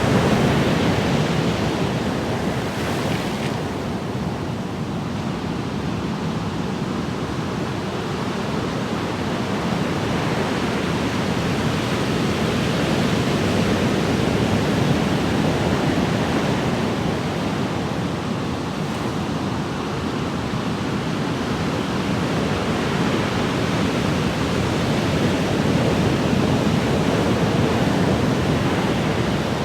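Ocean waves breaking and washing on a shore in a continuous rush, swelling and easing slowly every several seconds.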